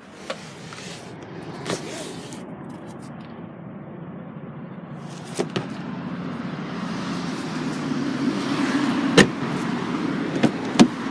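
Steady motor-vehicle rumble that slowly grows louder, with a handful of sharp clicks and knocks, the loudest about nine seconds in and two close together near the end.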